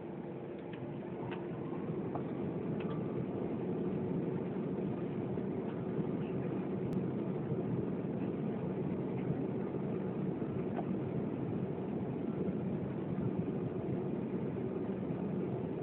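Jet engines of an Airbus A340-600, its four Rolls-Royce Trent 500s, running on takeoff: a steady, dense engine noise that grows louder about two seconds in and then holds.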